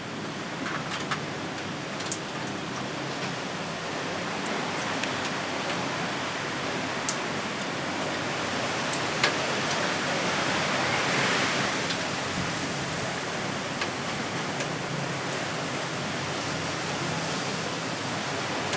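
Strong wind blowing through trees, a steady rushing of leaves that swells about ten seconds in, with a few light ticks scattered through it.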